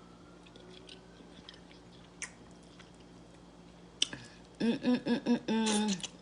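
Mouth sounds of someone chewing stewed fish head: scattered wet clicks and smacks. Over the last second and a half comes a louder hummed "mm-mm-mmm" in her voice, a few short pulses and then one held note.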